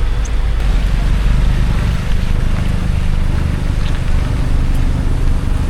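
Car driving along: a steady low rumble of engine and tyres on the road.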